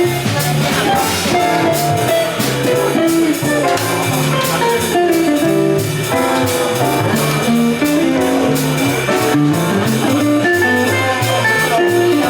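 A live jazz band playing, with a bass line stepping from note to note under the melody and a steady beat.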